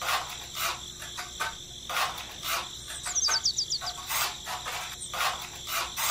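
Small steel trowel scraping and patting wet cement in short strokes, roughly two a second, over a steady high background tone, with a quick run of high chirps about three seconds in.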